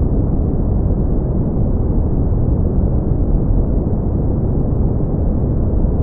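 Steady brown noise: an even, deep rumbling hiss weighted toward the low end, with no tones or clicks.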